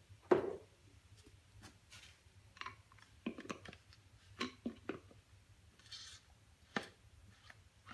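Scattered small clicks, knocks and rubbing from handling a foam cannon's plastic bottle, with the loudest knock about a third of a second in.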